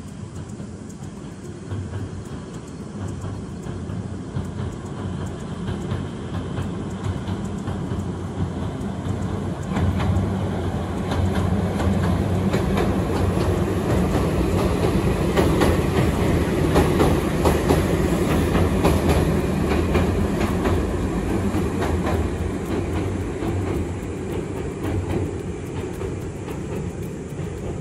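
A two-car electric train crossing a steel girder bridge: its wheels rumble and clack over the rail joints. The sound builds as the train comes overhead, is loudest about halfway through, then fades as it runs on.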